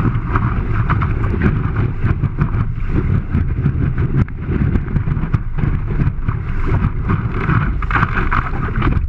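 Strong wind buffeting a GoPro camera's microphone while windsurfing in high wind, with water slapping and splashing against the board in quick, irregular strokes.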